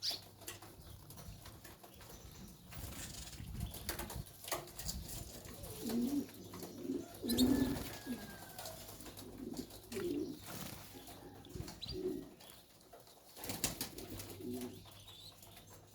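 Caged birds: low cooing calls repeated every second or two, with a few faint high chirps and short clicks and rattles among the cages.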